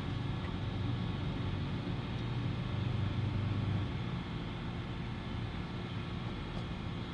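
Steady engine drone running in the background, easing off slightly about four seconds in.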